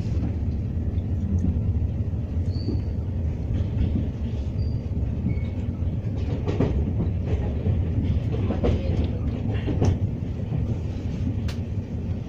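Passenger train heard from inside the carriage while running: a steady low rumble of wheels on rails, with a few sharp knocks and rattles in the second half.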